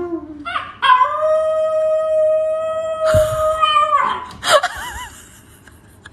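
Dog howling: one long, steady howl starting about a second in and held for about three seconds, then a shorter wavering howl.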